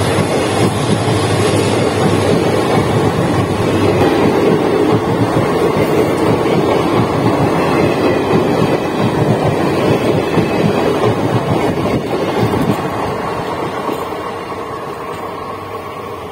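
Passenger train coaches rolling past at speed, wheels running on the rails in a steady rumble that fades over the last few seconds as the end of the train draws away.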